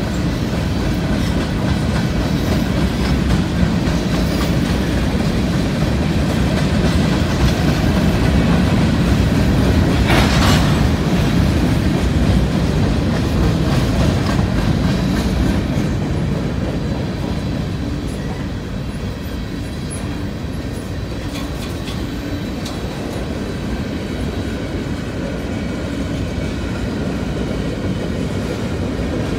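Freight cars of a manifest train rolling past, covered hoppers and tank cars: a steady rumble of steel wheels on the rails with clickety-clack over the rail joints. A brief burst of hiss comes about ten seconds in.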